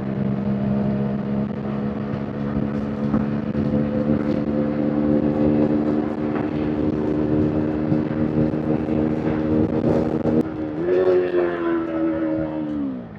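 KTM RC 390's single-cylinder engine and exhaust holding a steady pitch at cruising speed. About eleven seconds in it picks up briefly, then the pitch falls steadily as the throttle is rolled off and the bike slows.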